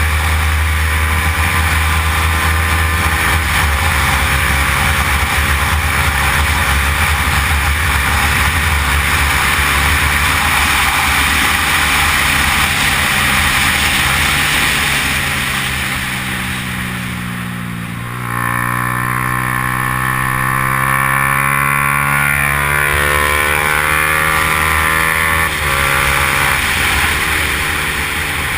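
Yamaha R15's single-cylinder four-stroke engine running hard at race speed, with quick dips in pitch at gear changes about three and a half seconds in and again near the end. Around the middle the revs and loudness fall off as the bike slows, then climb steadily again from about eighteen seconds as it accelerates away.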